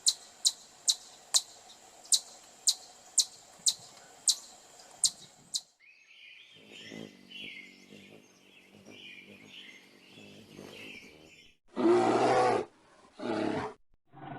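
A string of animal calls. First comes a series of about a dozen sharp, high clicking chirps, roughly two a second. Softer chirping follows, then two short, loud roars near the end.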